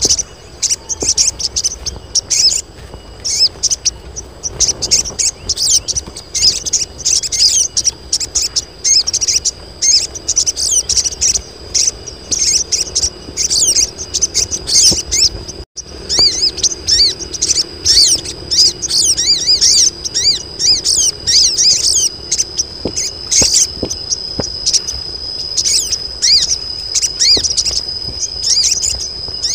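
A flock of female sogon birds chattering with dense, rapid high chirps and trills, the calls of birds in breeding condition calling to males. A steady high buzz joins in about three-quarters of the way through, and the sound drops out for an instant just past the middle.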